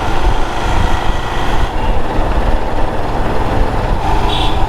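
Motorcycle on the move, heard from the rider's own microphone: steady wind rumble over engine and road noise, with a short high beep near the end.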